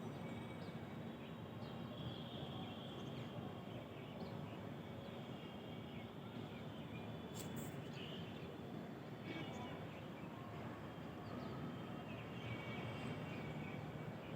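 Morning ambience: small birds chirping and calling here and there over a steady background hum, with one brief click about halfway through.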